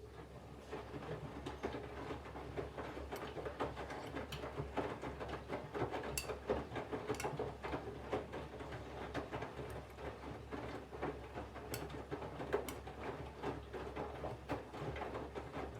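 Candy GVF4 137 LWHC/2 washing machine in the main wash of its 'Colours 40°' programme: the drum starts turning just after the start and tumbles wet laundry. The tumbling gives a churning slosh over a steady low motor hum, with a dense patter of small clicks and knocks.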